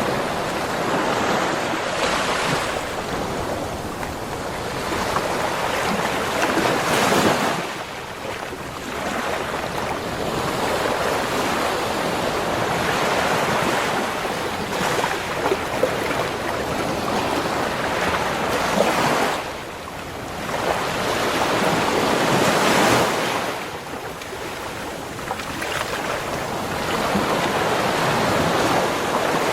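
Ocean waves breaking on a beach: a continuous wash of surf that swells and falls back, with several louder breakers, one about a quarter of the way in and two more about two-thirds through.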